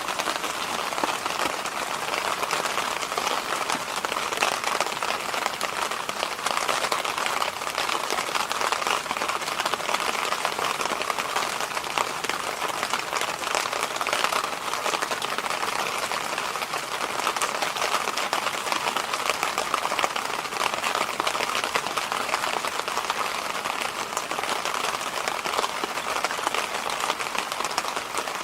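Electric fan running steadily: an even rush of moving air, strongest in the middle and upper range, with a fine crackly texture and no change in speed.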